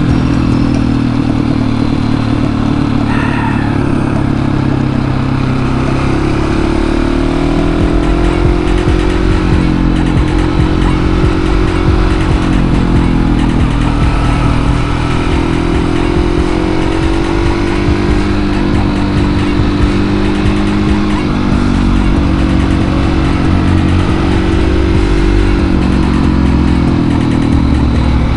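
Husqvarna 701's single-cylinder engine under way on a motorcycle, its revs rising and falling several times through the gears.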